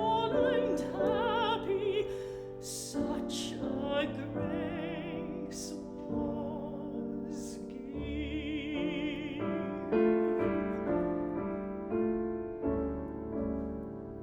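Classical art song for voice and piano: a singer with a wide vibrato sings the final phrase over piano accompaniment. From about eight seconds in the voice stops and the piano plays on alone, its notes growing quieter.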